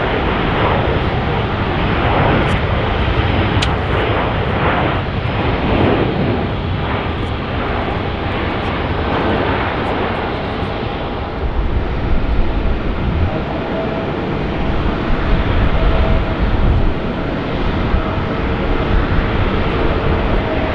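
Jet engines of a passing Airbus A319 airliner, steady and loud. About thirteen seconds in, the sound changes to a second airliner, an Airbus A321neo, with a deeper rumble and a steady whine over it.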